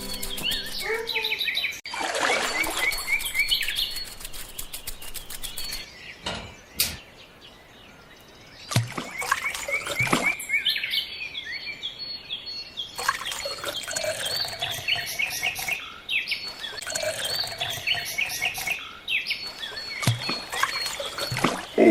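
Small birds chirping and twittering in short, quickly repeated calls, with a quieter pause partway through.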